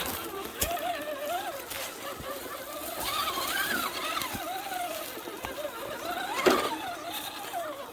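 Radio-controlled car's motor whining, its pitch sliding up and down as the throttle changes, with scattered clicks and a sharp knock about six and a half seconds in.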